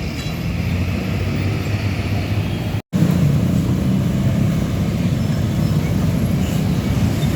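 Heavy truck diesel engine running steadily with road noise. The sound drops out for an instant just before three seconds in and resumes slightly louder.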